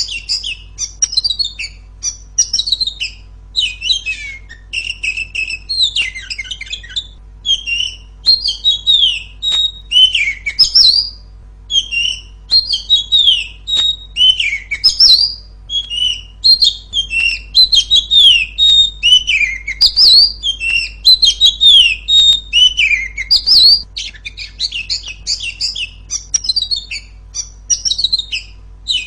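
Female Oriental magpie-robin (kacer) singing loudly and clearly: a nearly unbroken stream of quick, varied whistles and chirps, with only short pauses between phrases.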